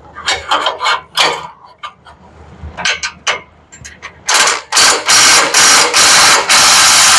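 Metal clicks as an exhaust section is fitted, then a power tool running in several bursts as it tightens the exhaust fastener down until it will go no tighter.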